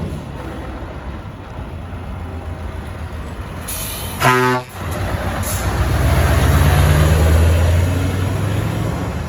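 Scania S650's 16.4-litre V8 diesel running, with one short blast of an air horn about four seconds in and brief hisses of air around it. The engine then grows louder for a few seconds before easing off.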